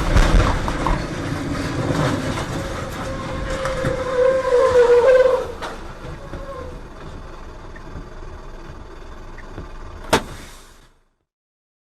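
Road vehicle noise, loud at first, with a wavering tone lasting about a second and a half in the middle, a sharp click about ten seconds in, then a sudden cut-off.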